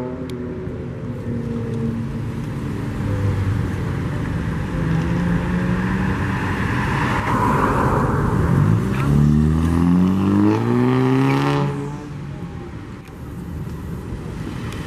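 A car engine running, then revving with a rising pitch from a little past halfway, and dropping back near the end.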